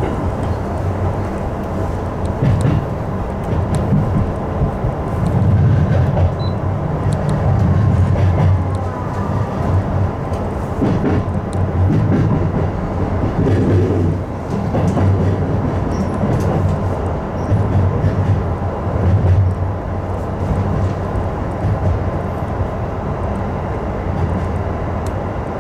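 Electric commuter train running, heard from inside the front car: a steady low rumble of wheels and running gear that swells and eases, with scattered faint clicks.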